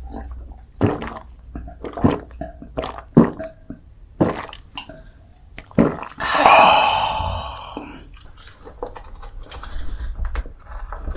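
A person chewing and eating with wet mouth clicks and smacks, and one longer, loud wet sound about six seconds in.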